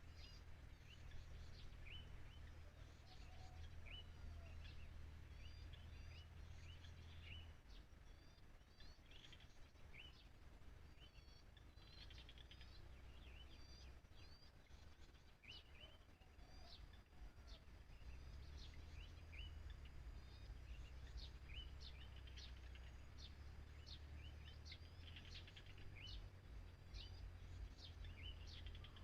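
Faint small birds chirping over and over in short, quick notes, over a low steady rumble of wind.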